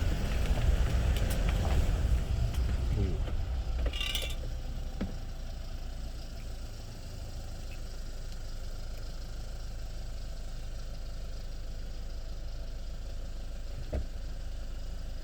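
Car engine and road rumble, loud for the first few seconds, then settling to a quieter steady low engine hum like idling. A brief hiss comes about four seconds in and a single click near the end.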